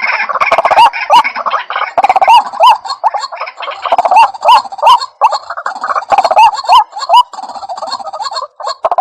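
White-breasted waterhen (ruak-ruak) calling: a loud, continuous series of short, hooked, rising notes, two or three a second, at times overlapping as if from more than one voice.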